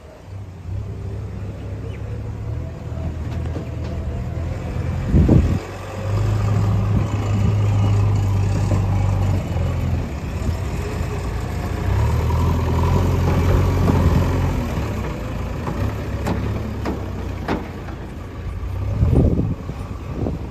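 Heavy diesel machinery engine running under load, revving up twice for a few seconds at a time, with a heavy thud about five seconds in and a couple more near the end.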